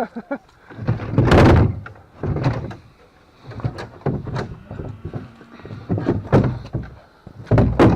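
A string of irregular thuds, knocks and scrapes from objects being handled and set down, loudest about a second in and again near the end.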